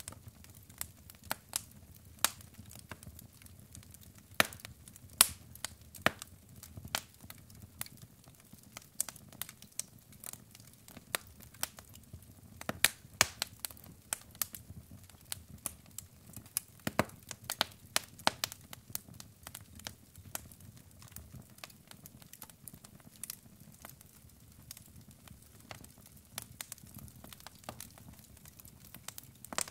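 Wood fire crackling: burning logs popping and snapping in sharp, irregular cracks over a low steady hiss.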